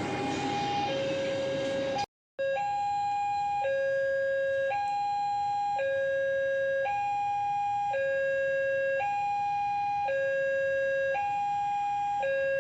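Railway level-crossing warning alarm sounding a steady two-tone low-high pattern, switching pitch about once a second. A passing train's rumble is under it at the start, then the sound drops out briefly about two seconds in.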